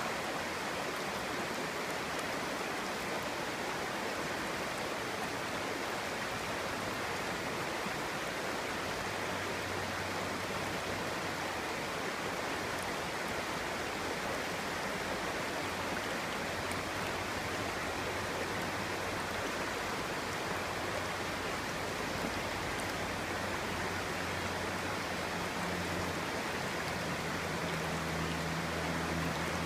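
Clear-flowing stream running with a steady rush and babble of water. A faint low hum comes in underneath about eight seconds in and grows a little near the end.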